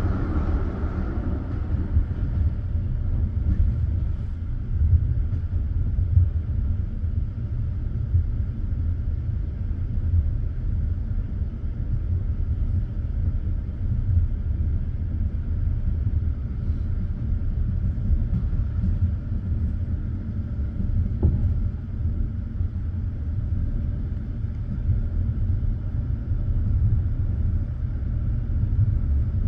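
Passenger train carriage rolling along the track: a steady low rumble of the wheels on the rails, heard from inside the car, with one faint tick about two-thirds of the way through.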